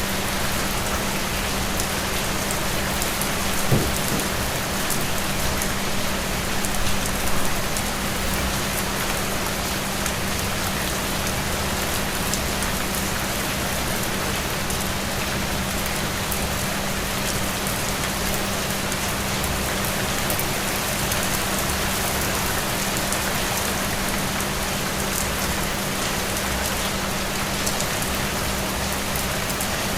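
Steady rain falling on a surface, with scattered drop ticks and a few louder drops about four and seven seconds in, over a faint steady low hum.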